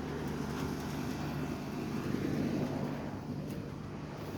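Steady background rumble with a constant low hum, swelling slightly about two seconds in.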